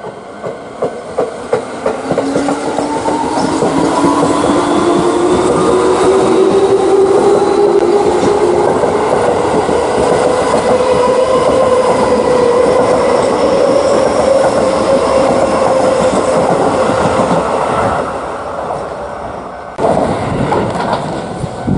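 Electric train pulling away and accelerating. Its traction-motor whine rises in pitch and then levels off, while the wheels click over rail joints. About two seconds before the end the sound drops and changes abruptly.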